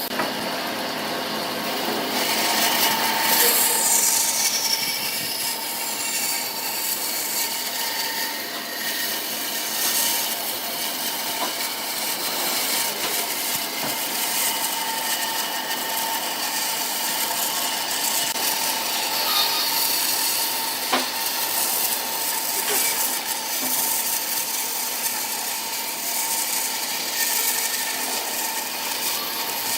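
Wood lathe running with a steady motor whine while a tool cuts and rubs against the spinning wood, a continuous scraping noise that swells and eases.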